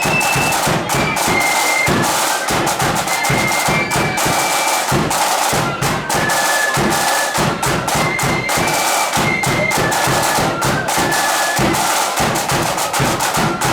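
Flute band playing: a flute melody in unison over rapid snare drumming and bass drum beats.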